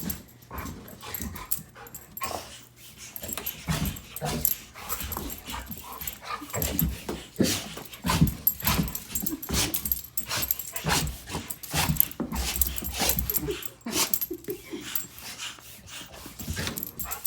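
A dog sneezing over and over in short, sharp bursts, one or more a second, against a steady low hum from an electric air pump.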